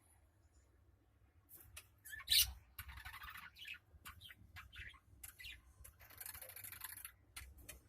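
Budgerigar chattering with short sharp chirps and scratchy squawks, starting about a second and a half in; the loudest squawk comes about a second later.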